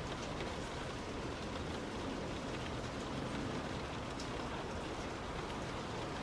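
Heavy rain falling steadily on a car while driving, an even hiss with a few faint scattered drop ticks.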